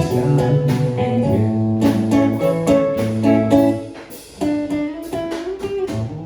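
Acoustic and electric guitars playing an improvised jam: rhythmic strumming over sustained chords and a low bass line. About four seconds in the playing drops briefly, then a held note bends upward before the strumming resumes.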